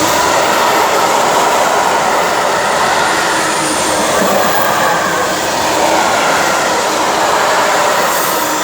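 Freight train hauled by a Class 66 diesel locomotive passing through the station: a loud, steady rush and rumble of wheels on the rails, with a faint squeal in the first few seconds.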